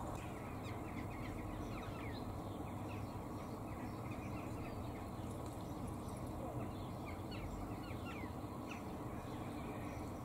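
Birds calling faintly in many short, high, falling chirps at irregular intervals, over a steady low background rumble.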